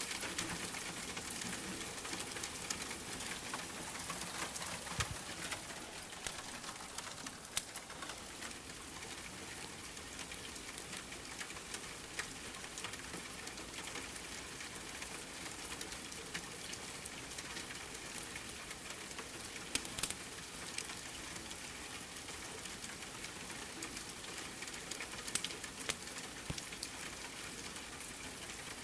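Steady rain falling, with now and then a sharp crackle or pop from a wood fire burning in a fireplace.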